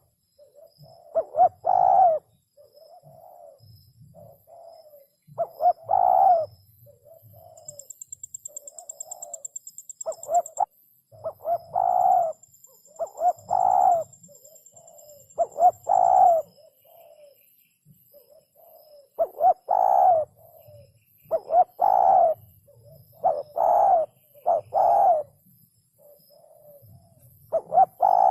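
Spotted dove cooing over and over in short phrases of a few coos, a phrase every two seconds or so.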